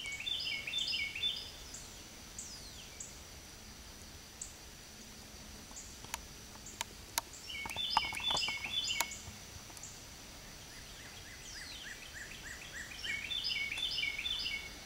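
A songbird sings a short phrase of quick repeated notes three times, at the start, in the middle and near the end, over a faint steady high drone. A few sharp clicks come near the middle.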